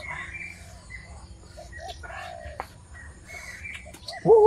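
Birds calling in the forest: short repeated cooing notes throughout, then a loud, rising, crow-like call near the end.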